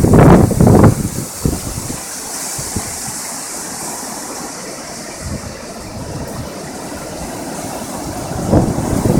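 Steady rush of floodwater, with gusts of wind buffeting the microphone in the first second and again near the end.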